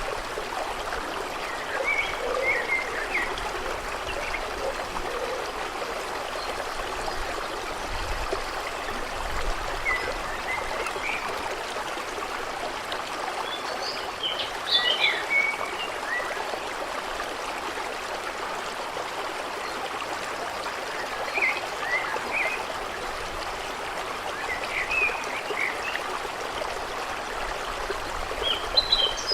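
A stream running steadily over stones, with birds chirping in short scattered calls over it.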